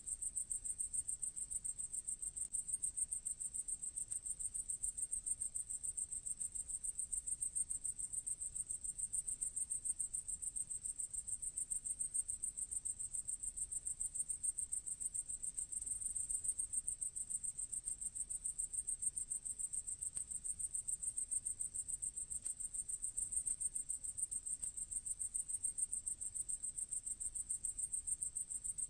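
Grasshopper stridulating: a steady, high-pitched trill of rapid pulses that keeps on without a break.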